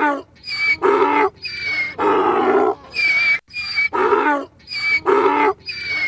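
A large animal calling over and over, about one loud call a second, each call short and pitched.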